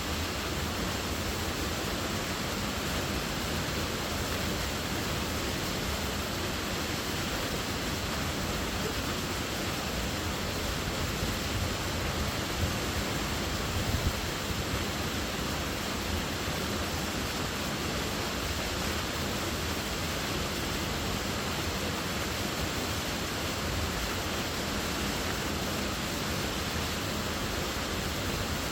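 Waterfall: water falling and splashing in a steady, even rush, with a few brief louder splashes midway.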